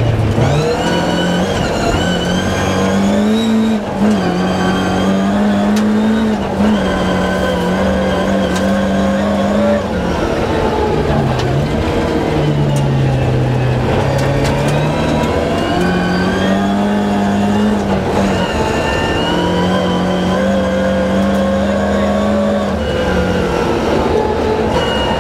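Rally car engine heard from inside the cabin at full stage pace, its revs climbing and falling again and again as it accelerates and shifts, with brief dips as the driver lifts or changes gear.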